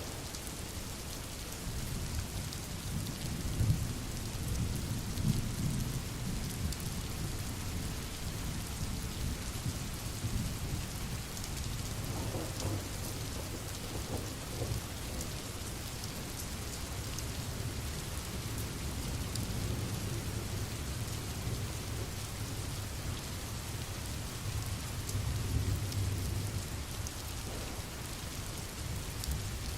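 Steady rain falling, with low rolling rumbles of thunder a few seconds in and again near the end.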